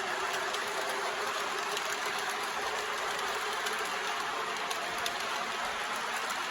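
MTH Propane Turbine model locomotive, driven by four electric motors, running fast with a train under heavy load: a steady mechanical whir of motors, gears and wheels on the track.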